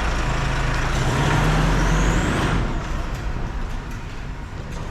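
Electric hydraulic power unit of a two-post vehicle lift running with a steady hum and hiss and a faint rising whine. The sound eases about two and a half seconds in.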